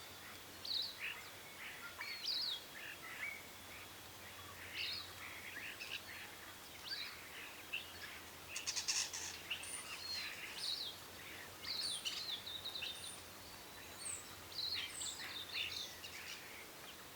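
Several birds chirping and calling, many short chirps overlapping, over a faint steady low hum.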